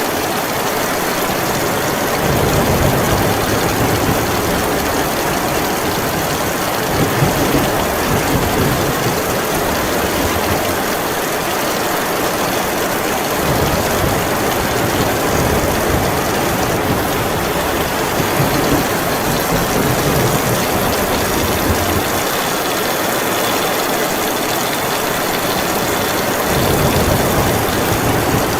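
Heavy rain pouring steadily, with deep low rumbles swelling and fading several times.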